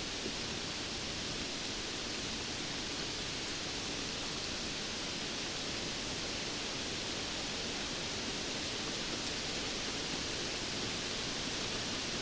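Steady rainfall as an even, unbroken hiss, with no separate drops or thunder standing out.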